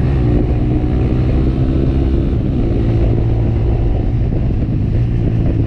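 Motorcycle engine running at a fairly steady speed while being ridden, with wind noise on the microphone.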